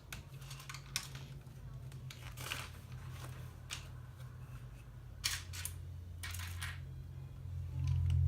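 Plastic LEGO pieces being handled and clicked together: scattered short clicks and a few brief rustling scrapes, over a steady low hum that grows louder near the end.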